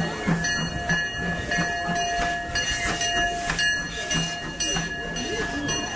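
Disneyland Railroad train's open passenger cars rolling past, with a rhythmic clatter of about two to three knocks a second and a steady high-pitched ring over it.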